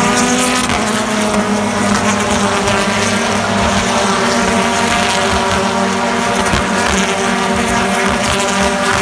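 BTCC touring car engines running hard at race speed, several overlapping in a steady, loud drone as the pack goes by.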